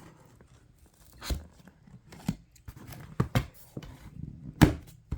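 A well-secured shipping package being torn open by hand: irregular tearing and crinkling of packaging with scattered sharp clicks, the loudest a little before the end.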